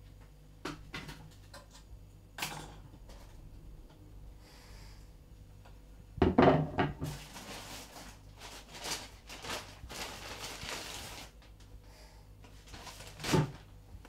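Kitchen handling sounds: a few light knocks, a loud thunk about six seconds in, then a paper bag crinkling for a few seconds, and another knock near the end.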